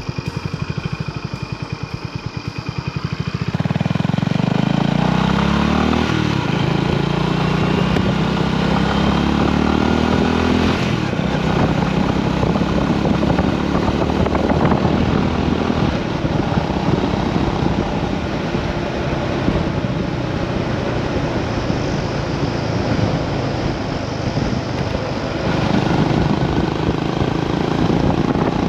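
Honda GB350S single-cylinder engine: slow even beats at low revs for the first few seconds, then pulling away with the pitch rising in steps through the gears, then running steadily at cruising speed with wind noise on the microphone.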